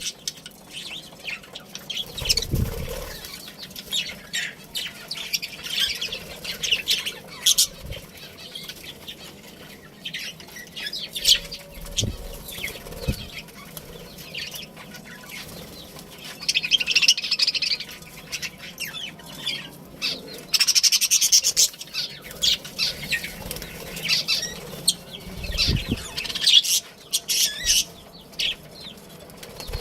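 A colony of budgerigars chirping and chattering in many quick, overlapping calls, with bursts of wing flapping and a few soft thumps.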